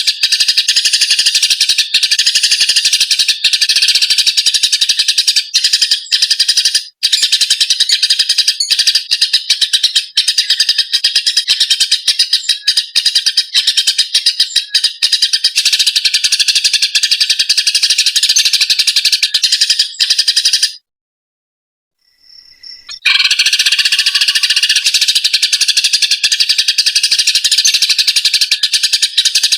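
Eurasian tree sparrows chirping rapidly and continuously in a dense, agitated chatter, the calls of sparrows fighting. The sound cuts out completely for about two seconds roughly two-thirds of the way through, then the chattering resumes.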